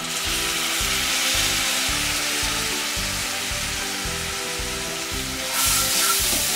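Chopped chilli, garlic and curry leaves sizzling in hot oil in a frying pan. The sizzle jumps up suddenly at the start as soy sauce goes into the hot oil. Near the end a wooden spatula stirs the mix and the sizzle swells again.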